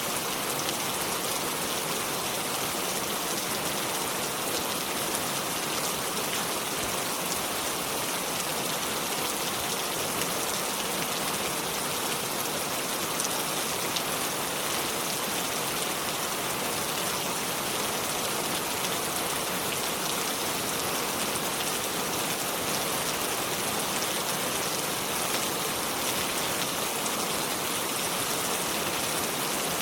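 Steady rain falling, an even hiss with fine pattering drops and no change in intensity.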